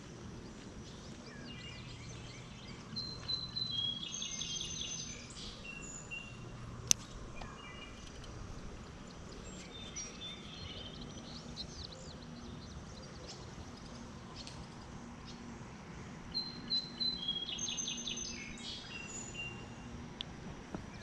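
A songbird singing, two similar phrases of quick high notes about thirteen seconds apart, over a steady outdoor background noise. A single sharp click about seven seconds in.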